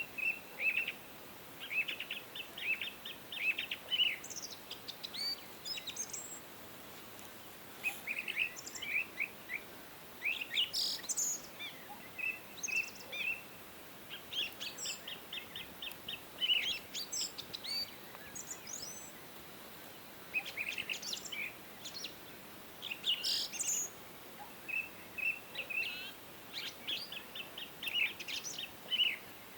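Songbirds singing: phrases of quick chirps and short trills of rapidly repeated notes, broken by pauses of a second or two, over a faint steady hiss.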